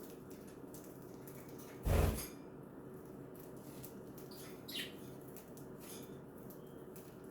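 Pet budgies making a short chirp and faint ticking sounds over a steady low hum, with one loud thud about two seconds in.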